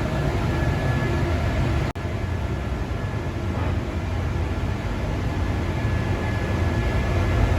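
Paint spray booth's fans running with a steady low rushing noise and a faint steady whine, the booth heated up for painting; the sound breaks off for an instant about two seconds in.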